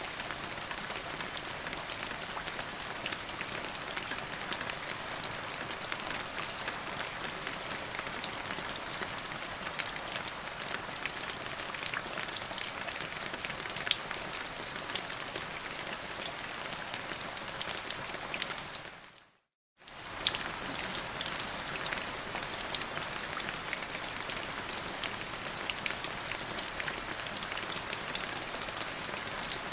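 Steady rain falling, a dense hiss with many sharp ticks of individual drops. About two-thirds of the way through it fades out to a second of silence, then comes straight back.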